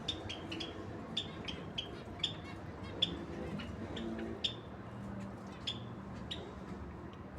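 A pair of lovebirds giving short, sharp, high-pitched chirps, many in quick irregular succession.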